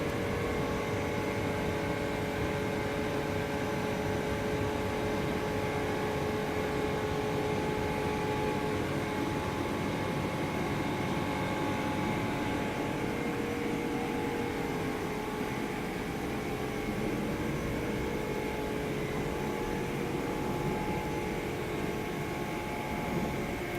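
A small engine running steadily at an even speed, with a constant hum and no revving.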